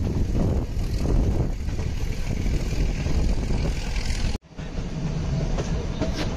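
Nilgiri Mountain Railway toy train running, heard from on board as a steady rumble of the moving coach. The sound cuts out abruptly for a moment a little over four seconds in, then picks up again.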